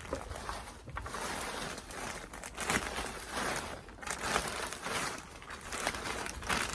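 Plastic bag of succulent soil mix crinkling and rustling as it is handled, the noise coming and going unevenly.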